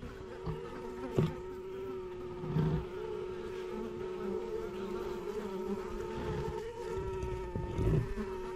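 Honeybees buzzing in an indoor observation hive: a steady, even hum, with a few low bumps of handling about a second in, near the middle and near the end.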